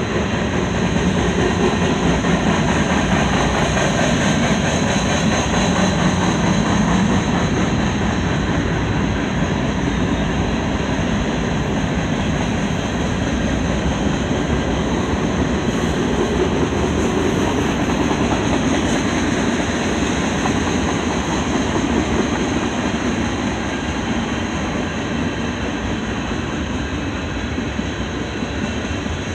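Mixed freight train rolling past, a steady unbroken noise of wheels and cars on the rails.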